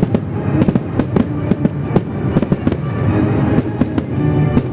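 Fireworks display going off in rapid bangs, several a second without a break, with music playing under them.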